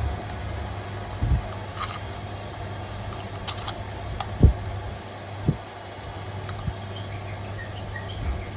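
A steady low electrical hum with a few dull thumps and sharp clicks scattered through it.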